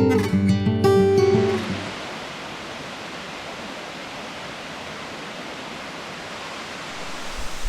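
Acoustic guitar music plays and stops about two seconds in, leaving the steady rushing of a waterfall.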